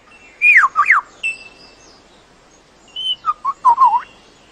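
Male superb lyrebird singing in clear whistled notes. Two sharp notes sweep down in pitch, then comes a short steady whistle, and near the end a quick run of falling notes.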